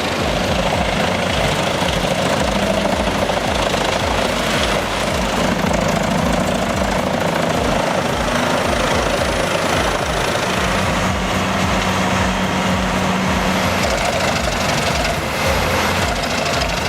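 Heavy vehicle engine running steadily, with a low uneven pulsing and a hum that comes and goes.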